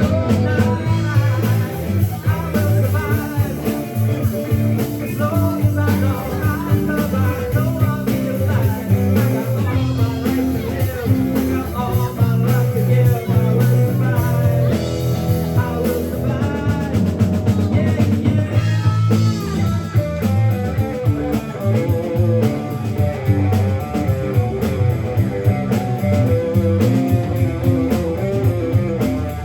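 Live rock band with electric guitars, bass guitar and drum kit playing an uptempo song over a steady beat.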